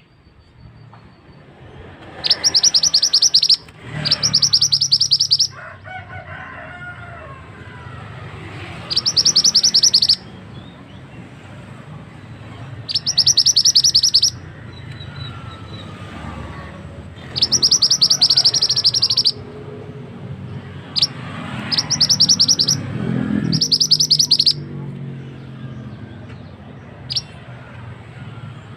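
Mantenan songbird calling in repeated bursts of fast, high, rattling notes, each burst a second or two long and coming every few seconds, over the steady rush of flowing water.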